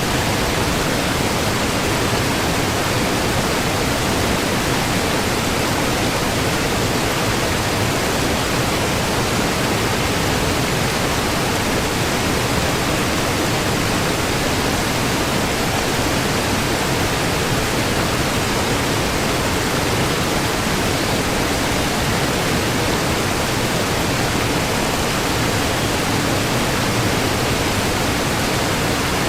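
Waterfall: a steady, loud rush of falling water, even and unchanging throughout.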